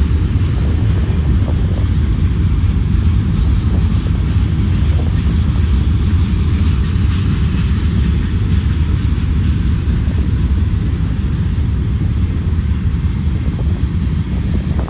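Freight cars of a BNSF manifest train rolling past, a loud, steady low rumble.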